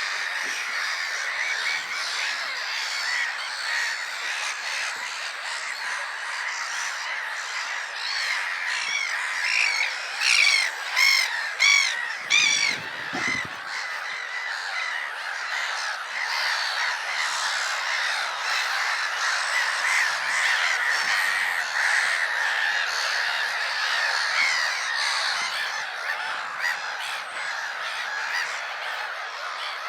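Colony of black-headed gulls calling: a dense, steady chorus of many overlapping calls, with a run of louder, nearer calls about ten to thirteen seconds in.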